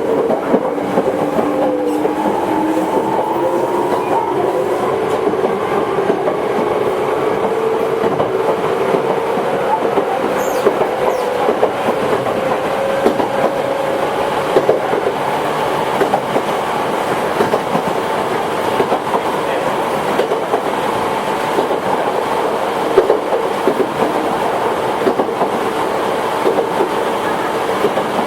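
Toyohashi Railway 1800 series electric train, a former Tokyu car, running on the line. The motor and gear whine rises in pitch over the first several seconds as it picks up speed, then holds steady. The wheels click over the rail joints throughout.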